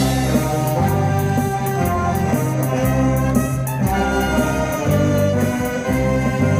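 A live amateur band playing a Korean trot medley: a held melody over a stepping bass line, with steady cymbal ticks keeping the beat.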